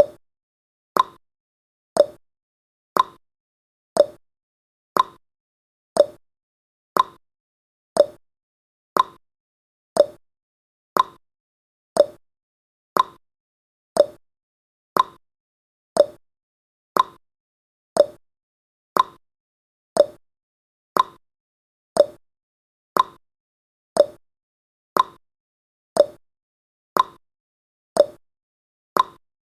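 Clock-style ticking sound effect of a countdown timer: one sharp click every second, alternating higher and lower tick-tock.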